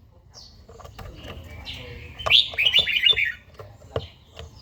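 Red-whiskered bulbul singing: a loud phrase of quick, bright warbled notes about two seconds in, lasting about a second. A few sharp clicks sound around it.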